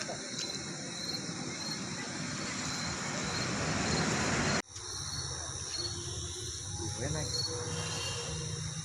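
Crickets or other insects chirping steadily in high, even bands. Over the first four and a half seconds a broad rushing noise swells, then cuts off suddenly. After the cut a low steady hum runs under the chirping.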